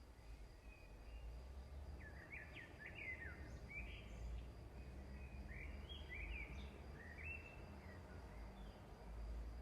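Faint bird chirping: a run of short, quick chirps over a low background rumble, starting about two seconds in and dying away near the end.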